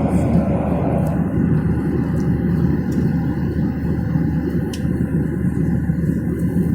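Steady low rumble of airliner cabin noise: engine and air noise heard inside the aircraft.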